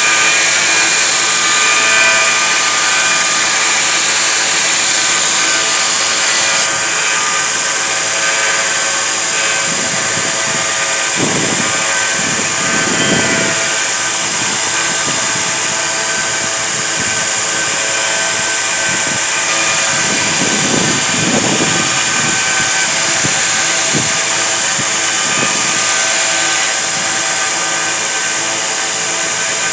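A power tool runs steadily throughout, working on a steel saw-blade knife blank. A couple of deeper, rougher swells come in about 11 and 21 seconds in.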